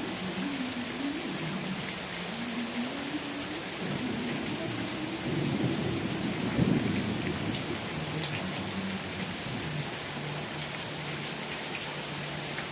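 Steady heavy rain hissing, with a low rumble of thunder that swells about halfway through.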